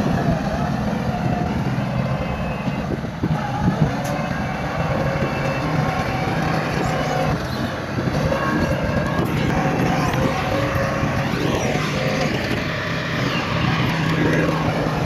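Heavy earthmoving machinery running: diesel engines of a bulldozer and dump trucks working steadily, with a couple of sharp knocks about four seconds in and the engine pitch shifting near the end.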